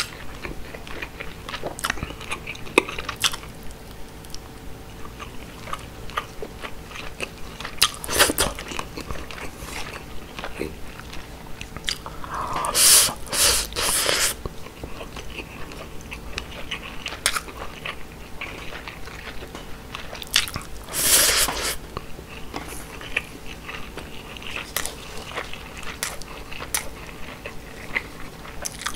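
Close-miked eating of grilled mackerel and rice: chewing with frequent small wet mouth clicks, and three louder stretches of chewing, about a quarter of the way in, near the middle and about two-thirds through.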